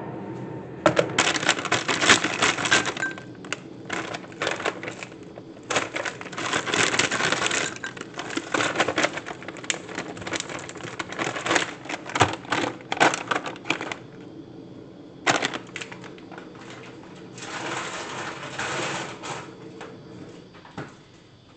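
Kitchen clatter: irregular clinks, knocks and scrapes in busy spells, over a faint steady hum.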